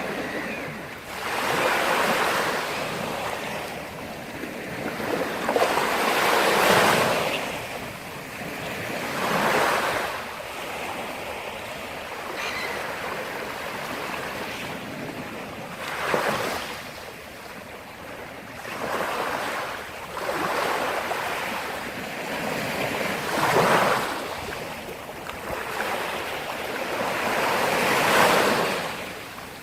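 Black Sea waves breaking and washing up the shore, each wave swelling and fading, a new one every few seconds.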